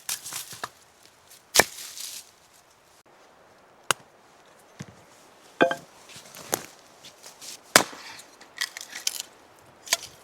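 A blade chopping into wood: a dozen or so sharp strikes at uneven intervals, with a brief ringing tone on one strike about halfway through.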